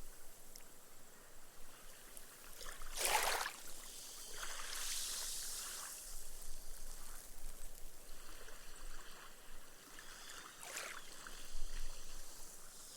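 Small, gentle sea waves lapping on a sandy beach: each ripple washes up with a soft splash, then fizzes away as the foam soaks into the sand. The clearest splashes come about three seconds in and again near the end.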